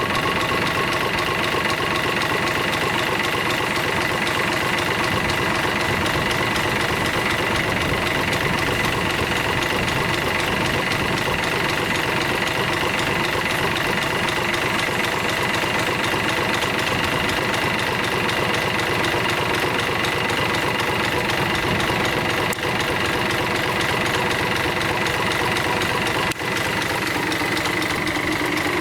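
Isuzu UM6HE1TCX six-cylinder turbocharged marine diesel engine running steadily, with a steady high-pitched whine over its run.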